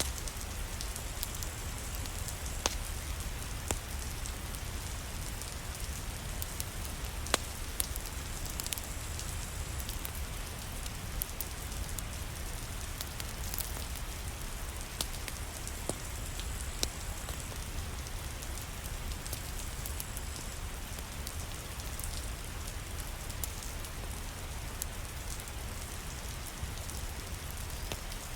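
Steady rain falling alongside a crackling fireplace fire, with scattered sharp pops and clicks over an even wash of rain.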